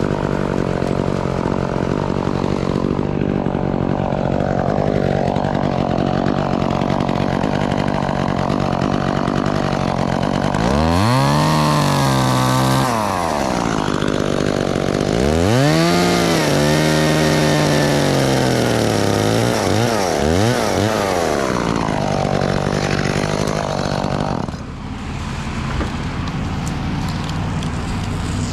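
Chainsaw engine running steadily, then revved up twice to cut, the second time for several seconds, each time falling back to a lower pitch.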